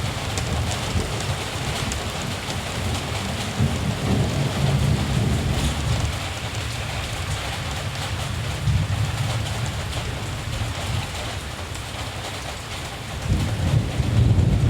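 Steady rain with low rumbles of distant thunder, swelling about four seconds in and again near the end.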